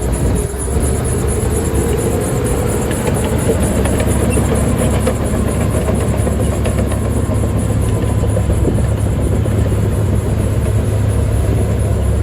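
Diesel engine of heavy earth-moving machinery running, a steady low rumble that grows louder about half a second in, with a few light metallic clanks a few seconds in.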